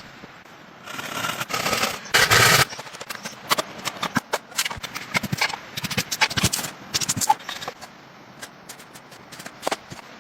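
A scraping rasp, then a run of irregular sharp clicks and knocks, dense for a few seconds and then sparse.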